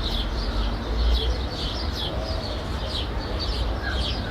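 Small birds chirping over and over in short, falling notes, over a steady low rumble of distant city traffic that swells briefly about a second in.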